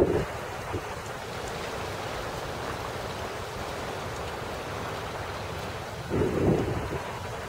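Strong wind blowing over the microphone, a steady rushing noise, with one heavier gust buffeting the microphone about six seconds in.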